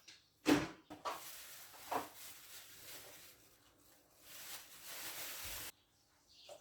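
Kitchen work sounds: a sharp knock about half a second in and a couple of softer knocks, over a steady rushing hiss that grows louder near the end and cuts off suddenly.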